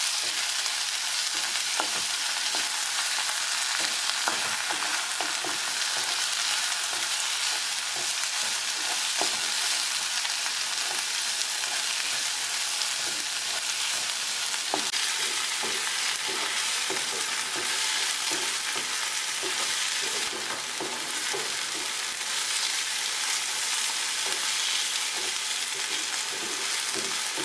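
Chopped onion, tomato and green chillies sizzling steadily in oil in a non-stick kadai as they are sautéed soft, with frequent short scrapes and taps of the spatula stirring them.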